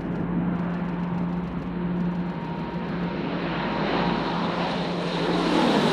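Aircraft engines running with a steady low drone, growing louder toward the end.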